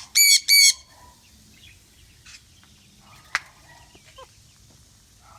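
A backyard bird gives two loud, harsh calls in quick succession, followed by faint scattered chirps and a single sharp click about three seconds in.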